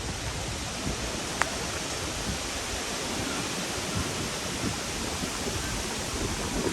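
Steady rushing outdoor noise with no clear tones, and one sharp click about a second and a half in.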